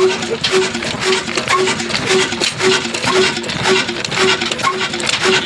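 24 hp Ruston diesel engine running steadily, with a rapid metallic clatter and a short beat repeating about twice a second.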